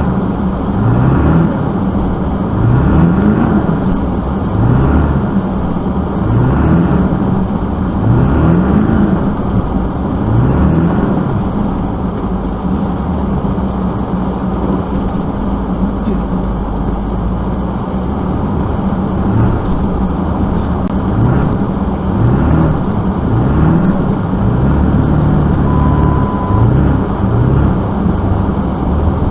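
Motor vehicle running, a steady hum with a short rising whine that repeats every second or two.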